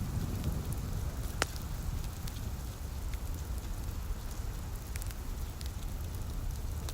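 Fireplace wood fire crackling, with scattered sharp pops, the loudest about a second and a half in, over a steady low rumble and light rain.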